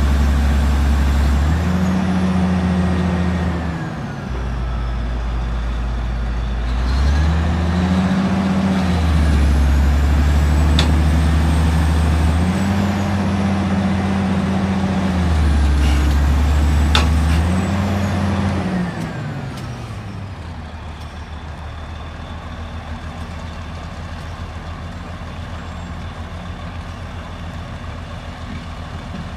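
Heavy diesel engine of construction equipment being revved up and dropped back several times in steps. About two-thirds of the way through it settles to a quieter steady idle.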